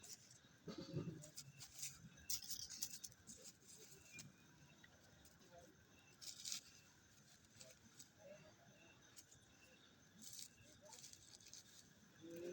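Near silence, broken by a few faint, scattered crackles and clicks.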